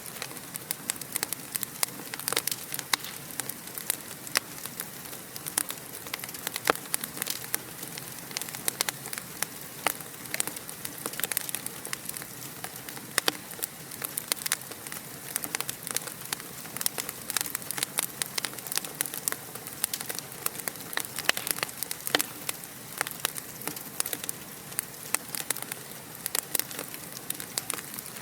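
Wood fire crackling steadily: a soft hiss with frequent sharp, irregular pops and snaps.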